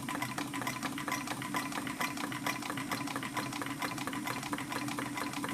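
Half-scale Robinson hot air engine running steadily and driving an old treadle sewing machine: a rapid, even clicking over a low hum.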